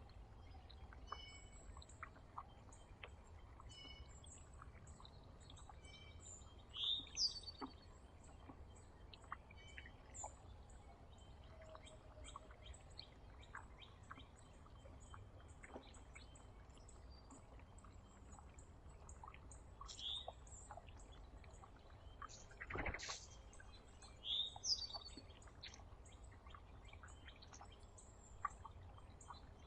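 Small songbirds at a feeder calling: a steady run of faint, very high chirps, with a few louder short sliding call notes now and then. A single sharp knock about three-quarters of the way through is the loudest sound, over a faint steady low rumble.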